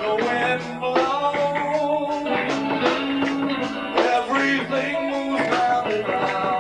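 Live rock trio playing: electric guitar with sustained, bending notes over bass guitar and drums.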